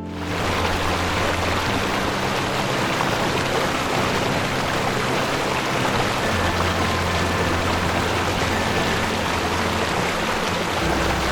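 Steady rush of water, even and unbroken, over soft sustained background music.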